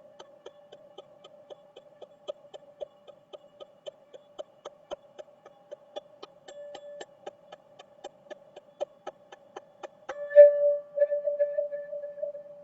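Teal ZenTube, a tuned resonant sound-healing tube, ringing with one steady mid-pitched tone over a rapid, even ticking of about four a second. About ten seconds in it is sounded harder, and the tone swells louder with higher overtones above it.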